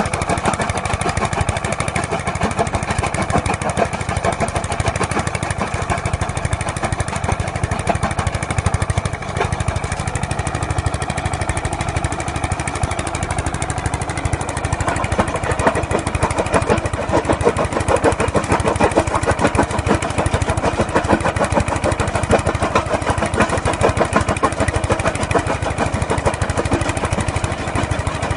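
Small diesel engine of a mobile jaw crusher running steadily with an even, rapid chug. A harsher mechanical clatter in the middle range comes in about halfway through.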